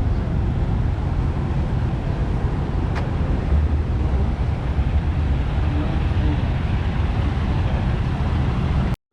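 Steady low rumble of vehicle engines and road traffic, with a single click about three seconds in. The sound cuts out abruptly for a moment near the end.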